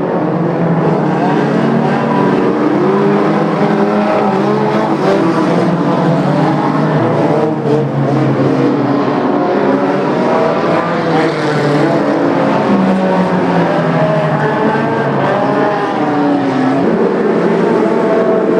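Several racing cars' engines running hard together, their pitches rising and falling as they rev and ease off.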